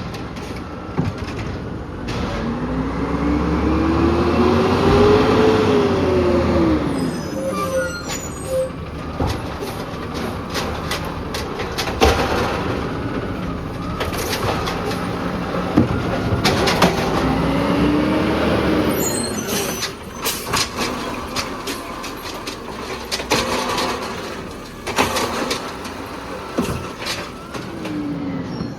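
Peterbilt 320 automated side-loader garbage truck running its arm and clamp. The engine revs up and back down three times to drive the hydraulics, with knocks and rattles as carts are lifted, dumped and set down.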